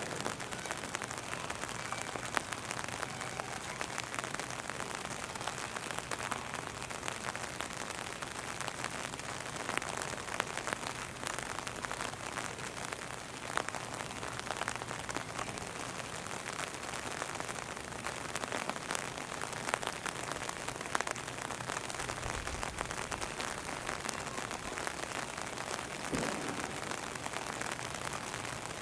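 Steady rain falling, with many small drops pattering close to the microphone, likely on an umbrella. A brief low thump about three-quarters of the way through.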